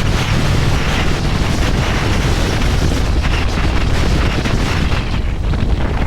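Wind noise on the microphone of a motorcycle-mounted 360 camera during a ride, over the steady running of a Harley-Davidson Electra Glide's V-twin engine.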